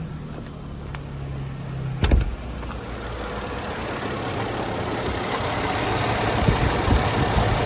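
A 2000 Mercedes-Benz CLK320's V6 engine idling. About two seconds in there is a single sharp clunk, and after it the engine and fan noise is steadily louder and more open.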